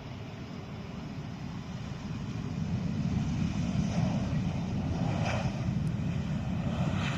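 Jet airliner on approach to land, its rumble growing steadily louder as it comes closer.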